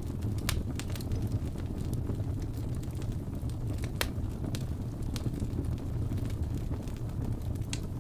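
Fire burning in a fireplace: a steady low rumble of flames with scattered sharp crackles and pops, the loudest about halfway through.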